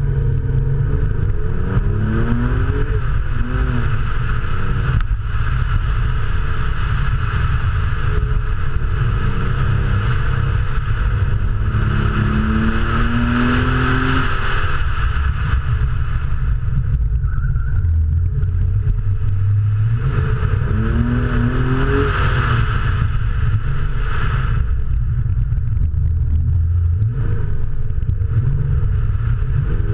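Porsche 911 (993) air-cooled flat-six engine pulling hard on track, its pitch rising through the revs on several accelerations and dropping back in between, over a constant loud low rumble.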